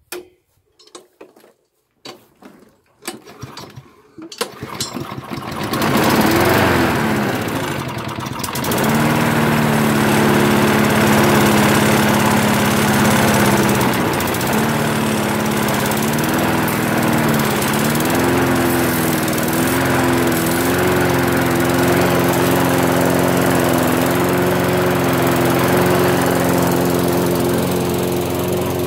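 Petrol engine of a Sanli lawnmower being started, freshly fitted with a new flywheel key in place of a sheared one. A few short start attempts come first, then it catches about five seconds in. It runs with its speed dipping and wavering for several seconds before settling into a steady run.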